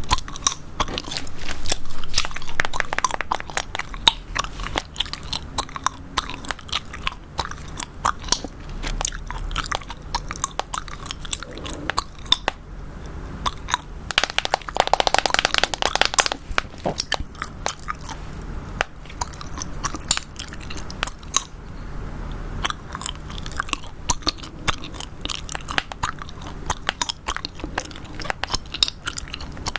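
Chewing gum close to the microphone: sharp wet clicks and smacks several times a second, with a louder, scratchier stretch of about two seconds about halfway through.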